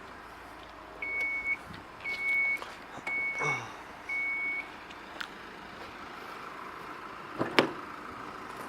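Four evenly spaced high electronic beeps, about one a second, from the Chrysler Grand Voyager's warning chime, then a sharp thump about seven and a half seconds in.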